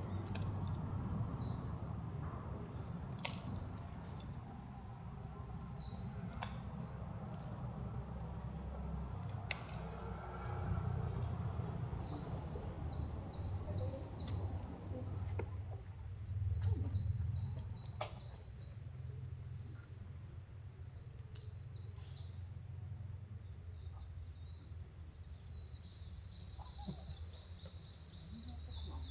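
Wild birds chirping and trilling in short repeated phrases over a steady low rumble, with a few sharp clicks scattered through.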